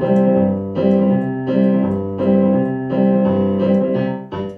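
Piano playing the introduction to a song: a run of chords struck about once every three-quarters of a second over a low bass line, with no voice yet.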